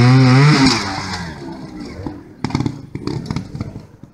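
Trials motorcycle engine revving hard, rising in pitch and cutting off about half a second in, followed by quieter scattered clattering knocks.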